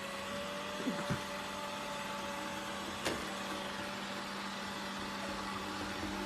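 Steady machine hum, with two soft knocks about a second in and a sharp click about three seconds in.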